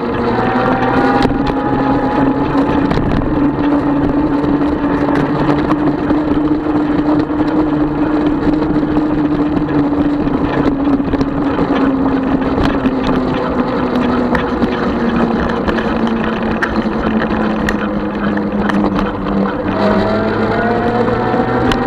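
36-volt electric bike motor whining steadily over a constant rush of noise. Its pitch rises as the bike speeds up about a second in and again near the end, and sags slightly before that.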